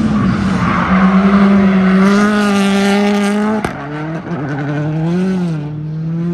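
A drifting car's engine held at high revs in a steady, loud note. About three and a half seconds in it cuts out sharply for a moment, then the revs dip, swell back up and settle.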